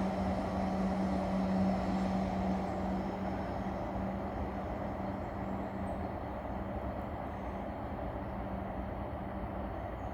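Freight train running past with a steady rumble and a low hum, slowly fading as it moves away.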